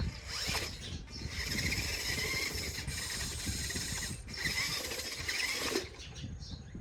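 RC off-road truck's motor and gears whining as it drives over dirt, the pitch wavering with the throttle, then stopping about six seconds in.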